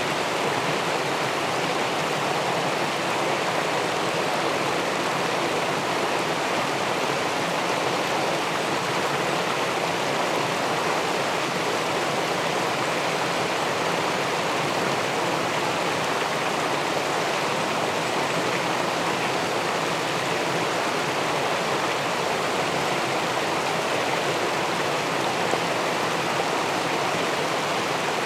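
Steady rushing of river water spilling over a low weir into the pool below, an even hiss and churn with no pauses or changes.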